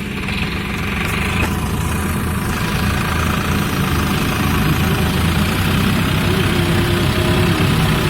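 Diesel tractor engine running steadily, growing slightly louder.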